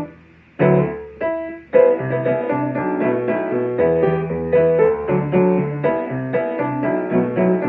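Solo piano playing an upbeat pop tune with a melody over chords. It stops briefly right at the start, comes back with a couple of separate chords, then resumes busy playing from about two seconds in.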